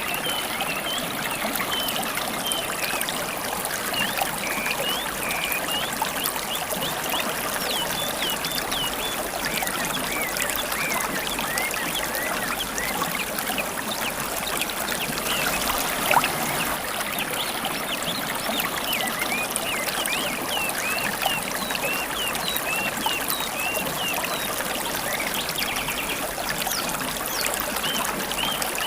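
River water running and babbling steadily, with many wild birds chirping over it in short rising and falling calls.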